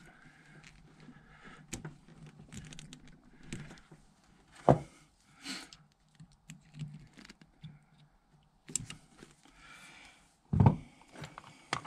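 Hands working a new length of fuel line onto a diesel heater: scattered small clicks, taps and rustling, with a sharp knock near the middle and another near the end.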